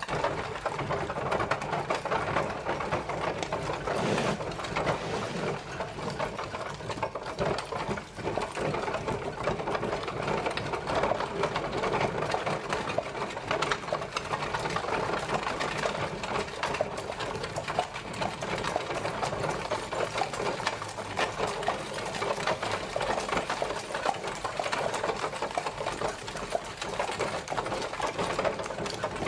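Horse-drawn carriage on the move: a steady, dense rattling and clattering of the carriage as it rolls.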